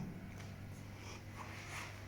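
Quiet indoor room tone: a steady low hum with a few faint, brief distant sounds.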